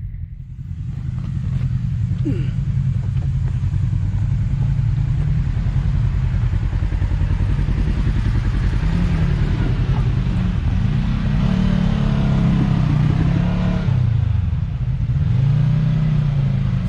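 Side-by-side UTV engine running under load while rock crawling. It gets louder about a second in and revs up and down unevenly.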